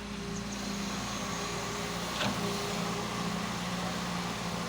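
Excavator engine running steadily, with one sharp knock about two seconds in.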